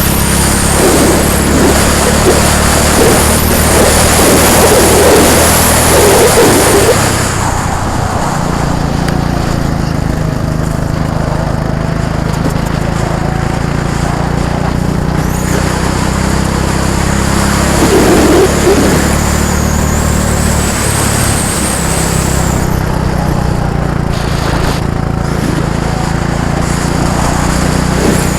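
Small go-kart engines running on a track with a lawnmower-like buzz. They are loudest for the first several seconds, then drop to a steadier, quieter running, with a brief louder swell around the middle as a kart comes closer.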